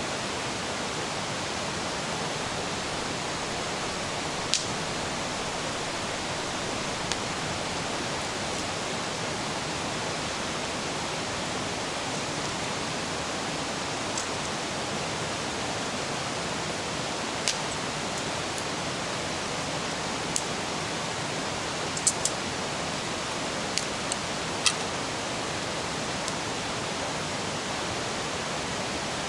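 A river rushes in a steady, unbroken wash, with a scattered handful of short sharp pops from a wood campfire crackling.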